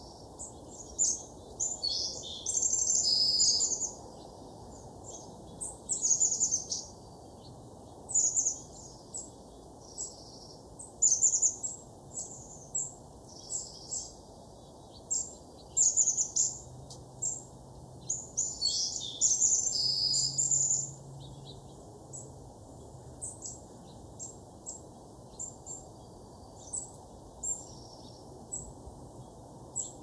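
Small birds calling and singing: many short, high chirps with a few longer twittering phrases, over faint steady background noise.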